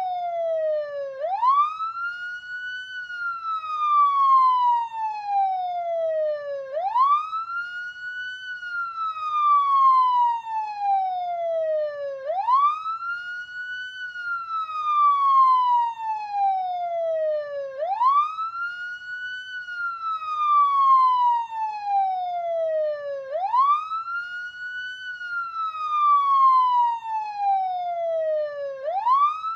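Police car siren sounding a wail: each cycle sweeps up quickly, then falls slowly over about four seconds, repeating roughly every five and a half seconds.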